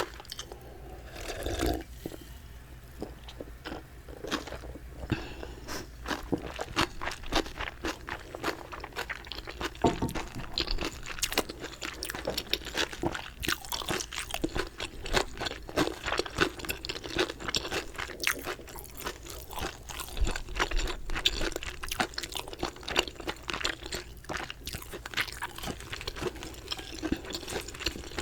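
A person chewing and crunching chicken up close to the microphone: a dense, continuous run of crisp crackles and bites.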